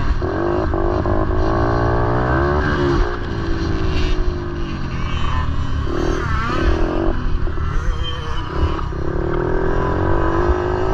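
Motorcycle engines running, their pitch wavering and shifting.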